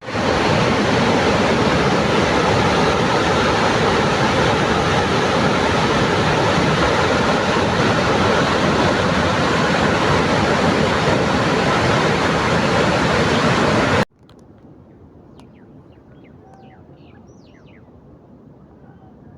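Loud steady rushing noise that starts and cuts off abruptly, lasting about fourteen seconds, then a faint background with a few short high chirps.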